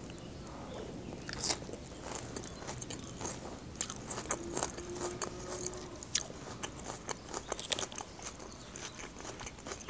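A person chewing a mouthful of Caesar salad: irregular soft crunches and mouth clicks.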